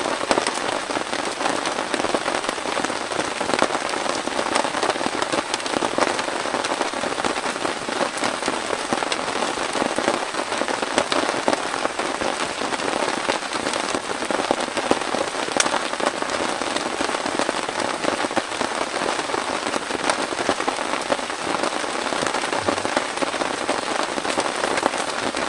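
Steady rain falling, a dense patter of drops hitting close by.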